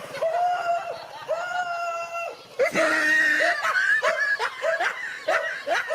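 High-pitched laughter: two long drawn-out notes, then a quick run of short bursts of about three a second.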